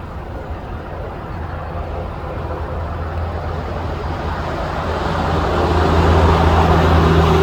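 A motor vehicle's engine running with a steady low hum over traffic noise, growing louder through the second half as it comes closer.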